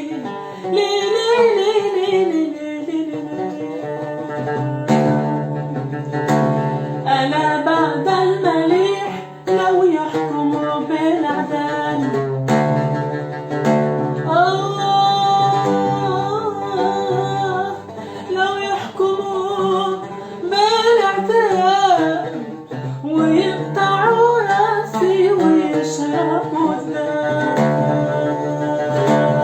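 Music: a woman singing a traditional Taizzi (Yemeni) folk song in long, ornamented lines over a plucked-string accompaniment.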